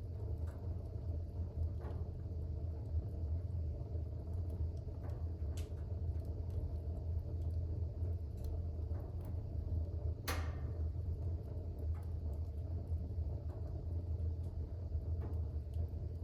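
Wood fire burning in a fireplace: a steady low rumble of the flames with scattered faint crackles, and one sharper pop about ten seconds in.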